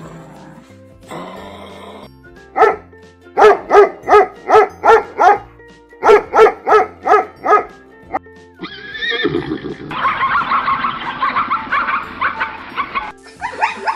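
A dog barking in two quick runs, about six barks and then five, followed by a zebra's long, rough braying whinny, over background music.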